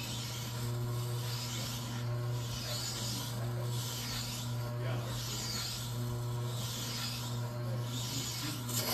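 Tormek wet grinder's motor humming steadily while a plane blade is drawn back and forth across the turning stone, a scraping hiss that swells and fades about every two-thirds of a second. A sharp knock near the end.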